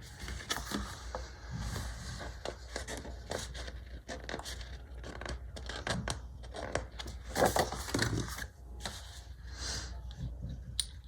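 Stickers and paper being handled on a planner page: short, irregular peeling, rustling and scraping sounds, with a few louder scrapes about seven to eight seconds in.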